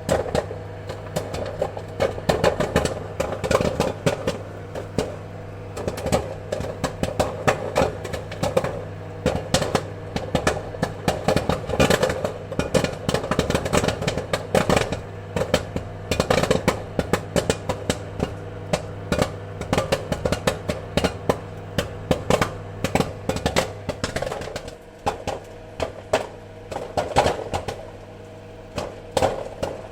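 Popcorn kernels popping in quick, irregular succession, many pops a second, over a steady low hum.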